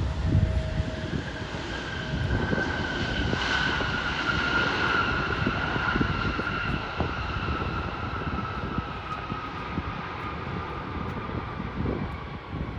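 Jet airliner passing, its engine whine slowly falling in pitch over a steady rumble.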